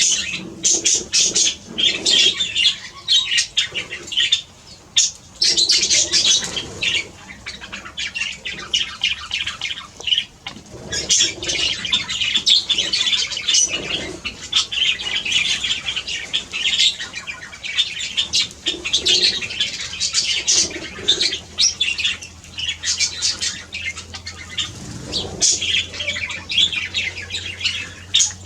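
A flock of wild birds chattering and squawking without a break, with wings flapping as they bathe in shallow tubs of water.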